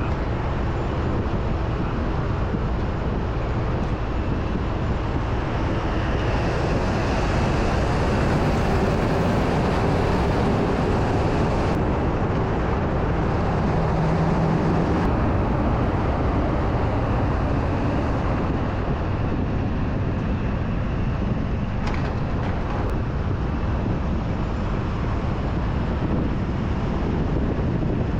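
Rollback tow truck driving down the road, heard from inside the cab: a steady blend of engine and tyre noise.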